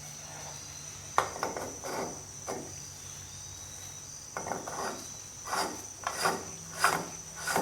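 Metal hand-tool work on the rear hub of a Rolls-Royce Phantom III as the locking barrel is taken off. A sharp click about a second in, then a run of short scraping strokes, roughly one or two a second, in the second half.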